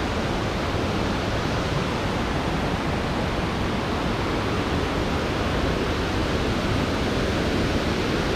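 Steady rush of a waterfall, an even unbroken noise of falling water.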